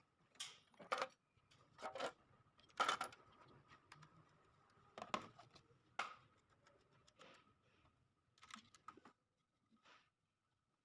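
A handful of short, light clicks and clatters at irregular intervals, over a faint steady high-pitched hum.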